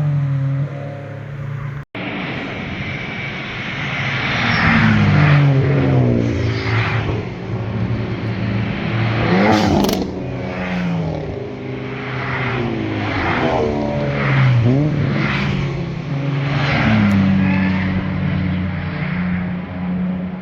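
Several performance cars accelerating past one after another, engines revving up and falling back in pitch at each gear change, with the exhaust note swelling and fading as each car passes.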